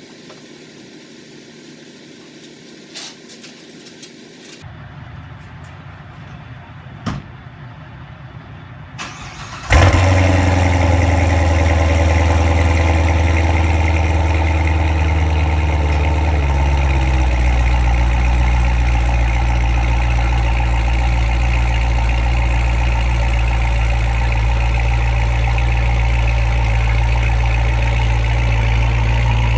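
A Chevrolet Corvette Stingray's 6.2-litre V8 starts about ten seconds in with a sudden loud flare. It then settles into a steady idle, dropping to a lower pitch a few seconds later. Before the start there are only a few quiet clicks and knocks.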